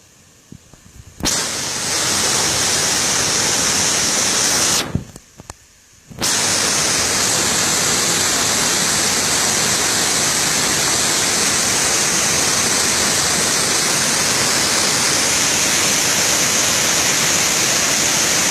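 Waterfall rushing: a loud, steady roar of falling water that starts suddenly about a second in, cuts off briefly about five seconds in, and returns to run on steadily.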